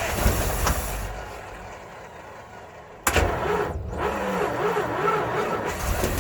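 Starter cranking over the 1958 Mack B-21's 1091 ci Hall-Scott straight-six in two goes: the first crank winds down over the first second or two, and a second crank starts abruptly about three seconds in. The engine turns over without catching, fuel not yet reaching it up the line.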